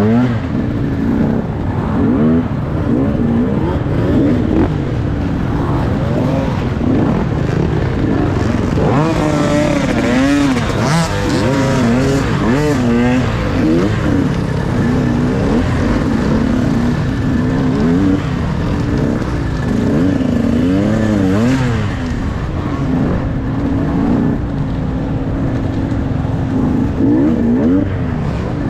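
Dirt bike engine running hard on an enduro course, revving up and down over and over with the throttle, with the busiest run of quick revs about a third of the way in.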